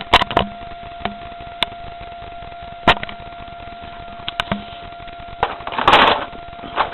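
Handling noise from a 1/42 scale toy garbage truck model: scattered sharp clicks and knocks, about seven in all, with a brief rustle near the end, over a faint steady high tone.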